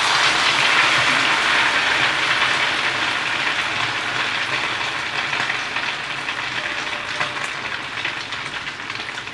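Minced-pork omelet frying in plenty of hot oil in a pan, sizzling hard just after being flipped, the sizzle easing slowly as it cooks on.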